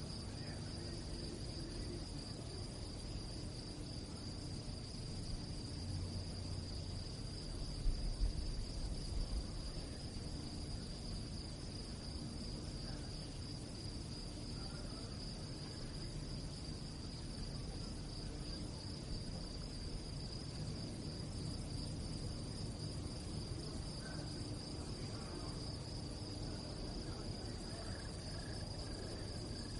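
Crickets chirping in a steady, continuous chorus at night. A brief low rumble about eight seconds in.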